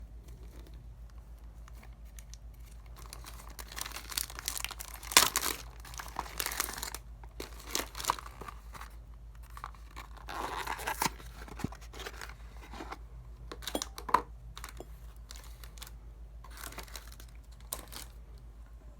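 Hands working a bar of Dial coconut soap, making irregular crinkling, tearing-like strokes with a few sharper clicks, loudest about five seconds in, over a faint steady low hum.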